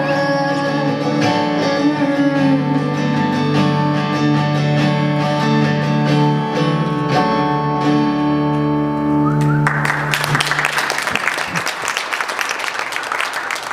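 A live song ends on sustained guitar chords under a held sung note. Then audience applause breaks out about ten seconds in.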